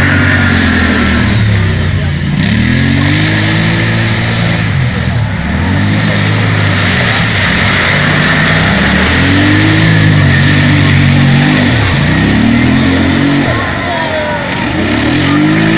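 Racing vehicle engines revving hard and easing off again and again, the pitch climbing and dropping every couple of seconds as they accelerate and shift through a course.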